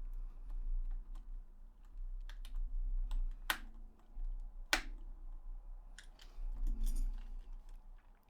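Small plastic clicks and taps from a DualShock 4 controller being handled, with two sharper clicks near the middle, over a low uneven rumble of handling.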